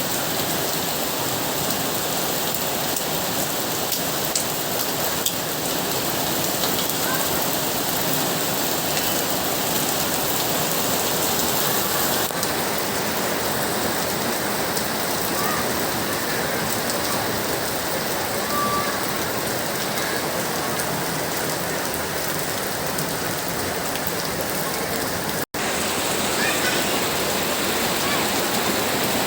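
Steady rain falling and pattering on surfaces. It cuts out for an instant about 25 seconds in.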